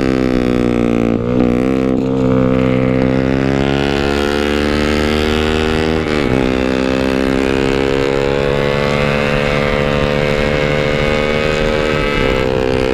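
Yamaha RX-King 135cc single-cylinder two-stroke engine pulling a motorcycle along, its pitch climbing slowly, with two brief dips where it shifts gear, about a second in and about six seconds in.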